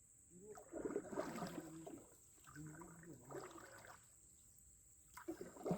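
Faint, indistinct voices talking in short phrases.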